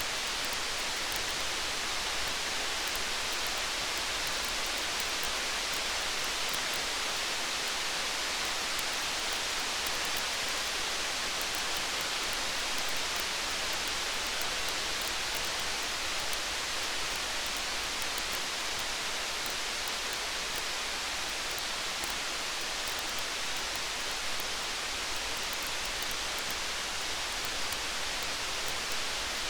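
Steady rain falling, an even hiss, with faint fine crackles from a campfire mixed in.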